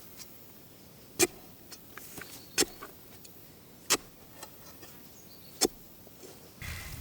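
Four sharp knocks spaced about a second and a half apart, with a few lighter clicks between them. A rougher scraping or rustling noise starts near the end.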